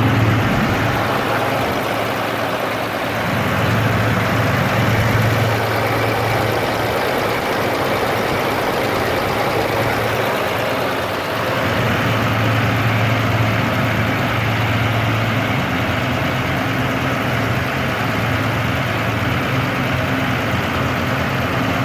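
Remanufactured Arrow A-54 single-cylinder gas engine running steadily on a test run. Its low hum swells and eases every few seconds.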